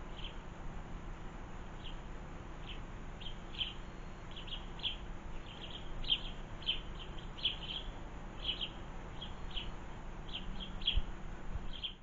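Small garden birds calling with short, high chirps, scattered irregularly and at times bunched several to a second.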